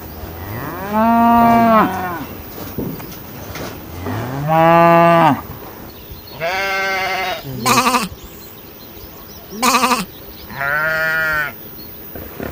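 An animal calling repeatedly in drawn-out bleat-like cries, each about a second long, rising and then falling in pitch, with two shorter, sharper calls in the middle.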